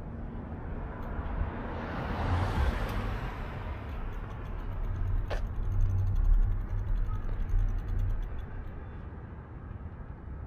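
Wind rumbling on the microphone during a bicycle ride, with passing traffic noise swelling and fading about two to three seconds in, and a single sharp click about five seconds in.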